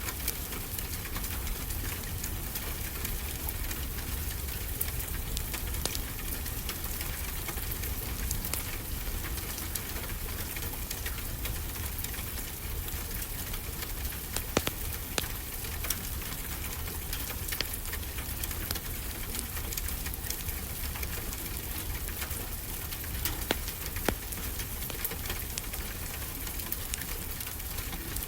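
Wood fire crackling with scattered sharp pops, a few louder ones midway and later, over a steady rushing wash of ocean waves.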